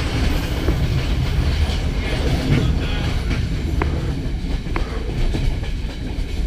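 Train running on the rails: a steady low rumble and rattle, with two brief high squeaks near the middle.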